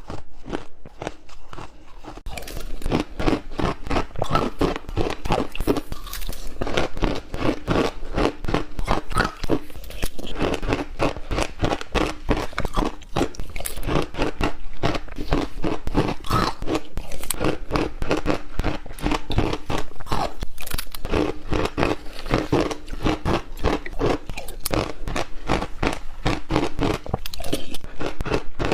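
Ice cubes being bitten and chewed, a fast continuous crunching that is softer for the first couple of seconds and then louder.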